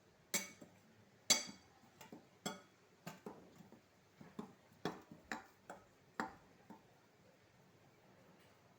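Sharp clinks and knocks of a utensil against a bowl, about a dozen irregular taps over some six seconds, as marinated chicken pieces are moved from one bowl into another.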